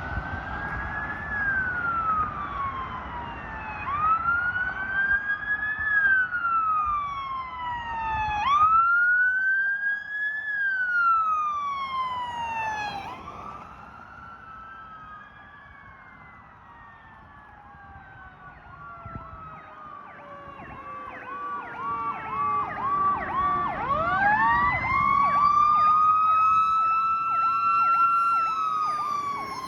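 Emergency vehicle sirens passing one after another: a wail rising and falling every few seconds, then a fast repeating yelp while a slower tone glides down, and near the end a siren winding up slowly to a high held pitch.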